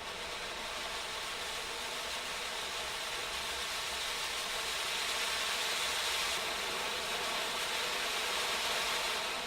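Low-noise garden firework fountain burning with a steady hiss of spraying sparks, growing gradually louder, with no bangs.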